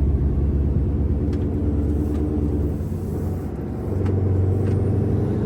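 Scania R660's 16.4-litre V8 diesel engine pulling the truck along with a deep, steady rumble. The engine sound dips for about a second near the middle, then picks up again.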